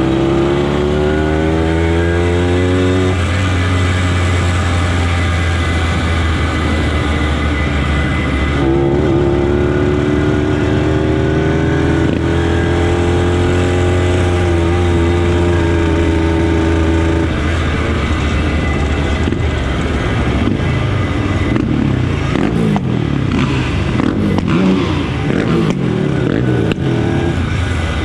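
A motorcycle engine under way. It picks up speed with rising pitch over the first three seconds, runs at a steady pitch for a long stretch in the middle, and sounds rougher and more uneven near the end.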